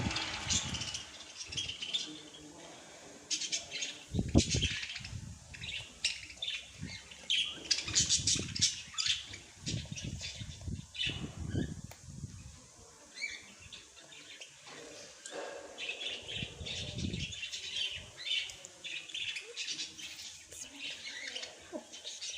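Small birds chirping and tweeting in quick, overlapping high calls, with several short low thumps mixed in.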